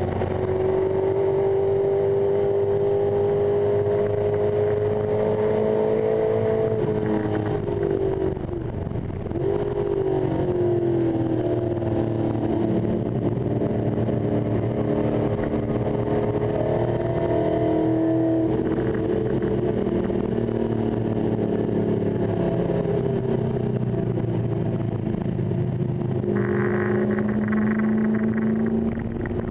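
1973 Ford XA Falcon Coupe race car's engine heard from inside the cabin at speed on track. The engine note rises and falls as the driver works through the gears, with a short drop in loudness about eight seconds in before it pulls up again.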